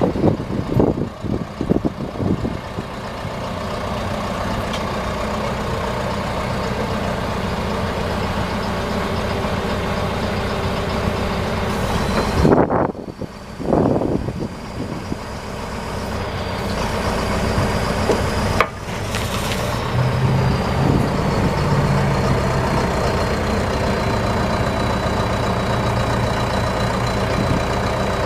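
2010 John Deere 310SJ backhoe's four-cylinder diesel engine running steadily, with a few knocks and clatters in the first couple of seconds and a brief drop near the middle. A thin high whine comes in about halfway through, rising slightly and then easing down.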